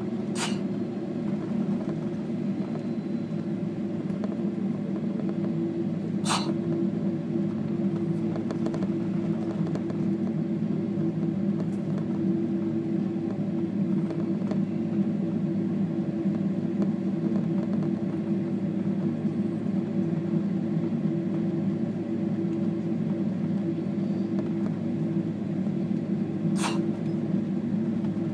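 Inside an airliner cabin during taxi after landing: the jet engines and cabin give a steady rumble with a constant low hum. Three brief sharp clicks sound, near the start, about six seconds in, and near the end.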